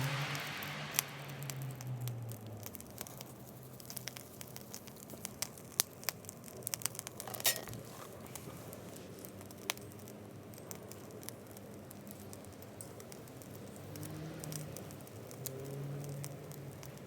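Wood fire in a small B6-size fire pit, crackling with scattered sharp pops and a faint sizzle.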